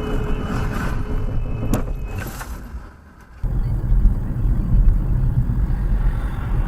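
Car driving noise picked up by a dashcam: road and engine noise, fading out about three seconds in. It cuts abruptly to a steadier, deeper rumble of another car on the road.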